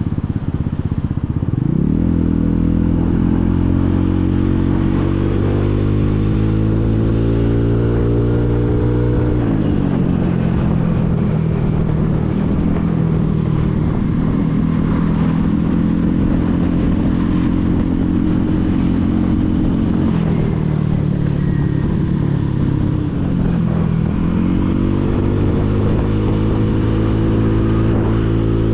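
Motorcycle engine heard from the rider's seat while riding in traffic: the engine pitch dips at the start, climbs steadily for several seconds, drops back about ten seconds in, runs fairly steady, dips again a little after twenty seconds, then climbs once more near the end.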